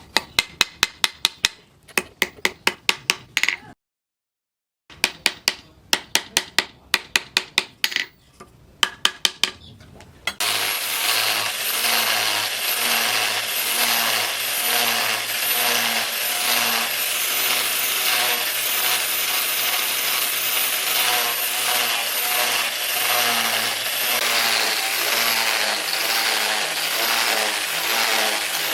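Rapid hammer strikes on metal, about five a second, in runs broken by an edit cut. About ten seconds in, they give way to a power tool running steadily with a high whine.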